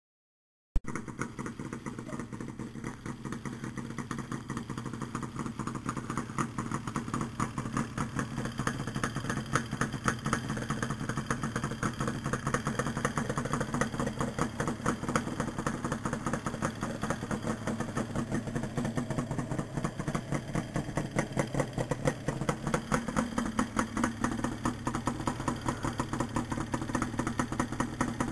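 Yamaha RD350LC liquid-cooled parallel-twin two-stroke, fitted with Micron expansion chambers, idling steadily with a fast, even exhaust beat. A little over 20 seconds in, the revs climb slightly and then hold at the higher speed.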